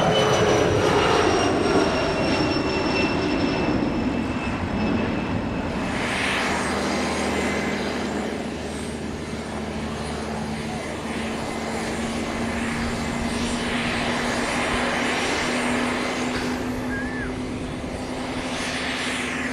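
Jet aircraft engines passing close by. The high whine falls in pitch over the first few seconds, then settles into a steady lower engine hum.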